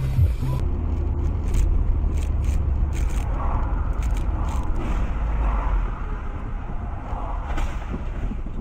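A car driving, with a steady low rumble and a few short clicks and scrapes over it.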